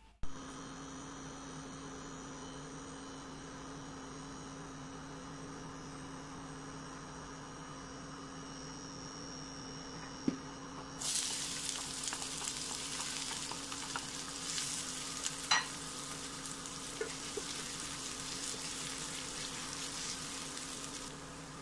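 A steady electrical hum. About halfway through, sliced onions and green chillies go into hot oil in a nonstick pan and start sizzling, with a few knocks of a wooden spatula. The sizzling stops shortly before the end.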